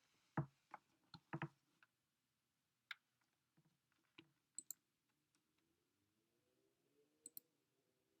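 Near silence broken by scattered faint clicks and taps, about a dozen in all, including two sharp double clicks about four and a half seconds in and again near the end.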